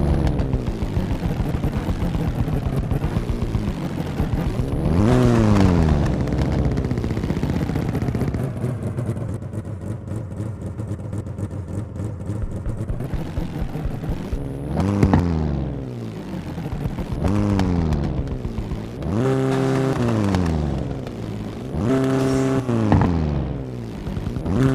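Tofaş Doğan L's four-cylinder engine running through an aftermarket Warex 'kurt' exhaust, idling with the throttle blipped about five times, each rev rising and falling in pitch: once near the start, then four times in the second half.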